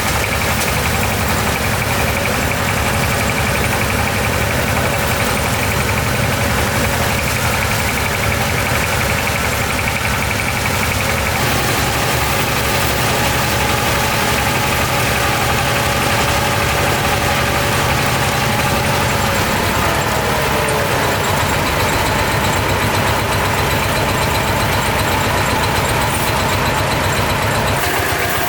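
An engine running steadily. Its note changes about eleven seconds in and drops briefly around twenty seconds.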